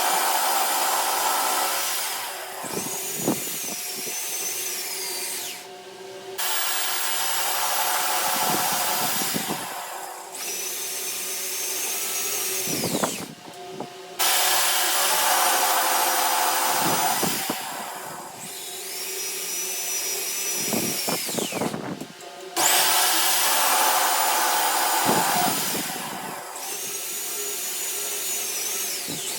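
Electric drill running in four repeated runs about every eight seconds, each ending with a high motor whine that falls in pitch just before it stops.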